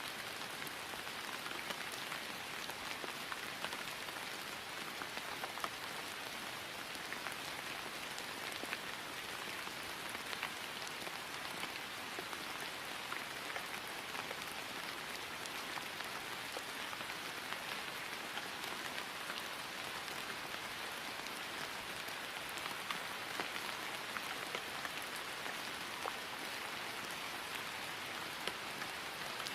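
Steady rain falling on grass, an even hiss with many small drop ticks.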